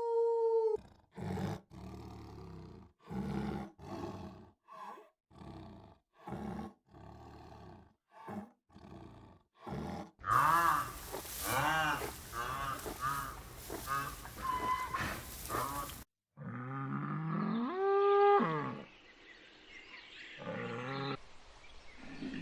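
Animal calls from several different animals in turn: a string of short separate calls, then a quick series of arched, rising-and-falling calls about two a second, then a few louder calls that swoop up and down, the loudest near the end.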